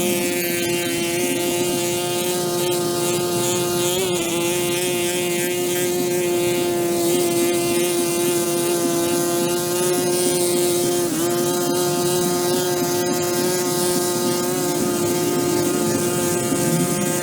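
Pressure washer running steadily, its motor and pump giving a constant hum over the hiss of the spray, with brief dips in pitch about four and eleven seconds in.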